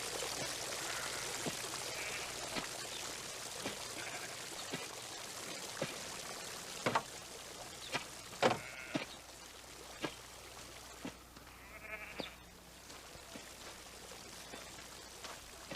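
Sheep bleating a few times over running water that trickles and fades, with scattered sharp knocks.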